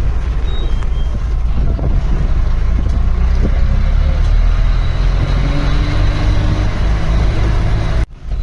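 A safari vehicle's engine running as it drives, with road and wind noise and a few short high chirps over it; the sound drops out abruptly for a moment near the end.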